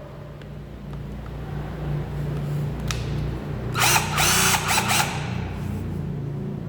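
Cordless drill's motor running steadily, with a loud burst of ratcheting clatter about four seconds in that lasts roughly a second.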